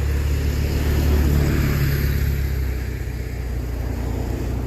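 A car passing by, its tyre and engine noise swelling about a second or two in and then fading, over a steady low rumble.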